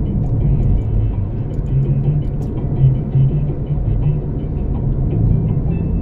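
Music playing on the radio inside a moving car, its bass notes over a steady rumble of road and engine noise.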